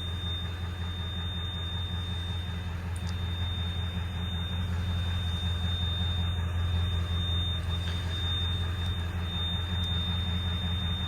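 Steady low hum of an idling turbo-diesel Ford E350 ambulance engine heard inside the box, with a constant thin high-pitched whine over it.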